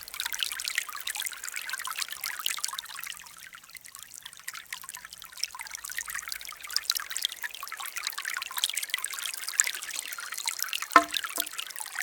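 Rain falling: a steady, dense patter of small drops. A short tone sounds briefly about eleven seconds in.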